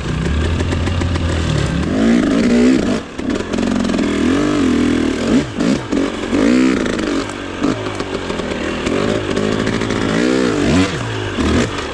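Trail motorcycle engine revving up and down again and again as the bike is ridden over rough ground, with a steadier drone in the first couple of seconds.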